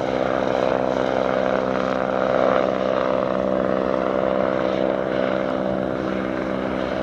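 AgustaWestland AW109 twin-turbine helicopter running steadily, a continuous engine-and-rotor drone of several steady tones over a rushing hiss, swelling slightly a couple of seconds in and easing a little near the end.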